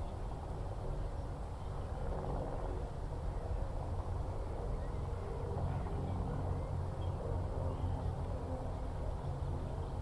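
A steady low engine drone from a distant vehicle or aircraft, with a few faint bird calls above it.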